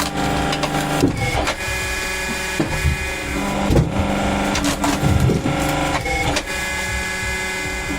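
Vakula semi-automatic firewood splitter running with a steady mechanical hum, broken by irregular knocks and cracks as wood is split.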